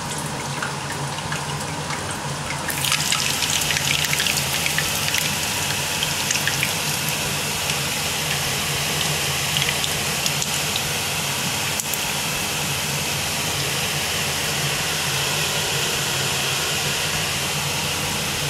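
Shrimp fritters frying in hot oil in a pan: a steady sizzle full of fine crackles, which grows louder and brighter about three seconds in. A steady low hum runs underneath.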